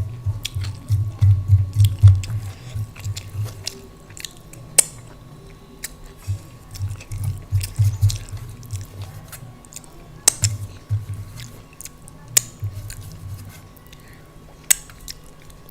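Close-miked chewing of rice and daal, with irregular runs of soft jaw-paced pulses and a few sharp mouth clicks or crunches.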